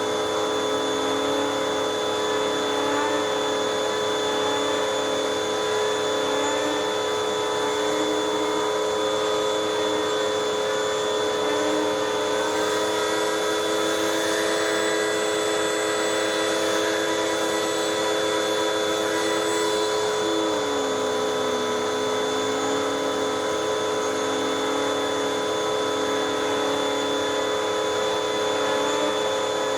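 Hoover WindTunnel 2 upright vacuum cleaner running steadily on hose suction, a hard-plastic finned pet tool being worked over fabric couch cushions. The motor's pitch shifts up and down a few times and drops suddenly about twenty seconds in.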